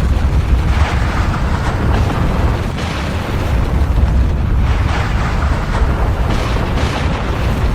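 Volcanic eruption: a continuous deep rumble with repeated noisy bursts every second or two.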